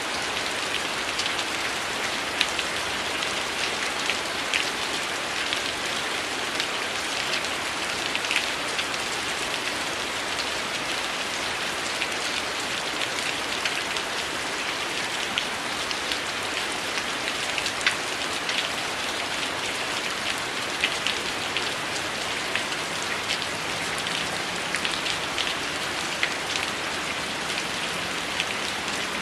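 Heavy rain falling steadily, with a wood fire crackling: many short sharp pops scattered through the rain.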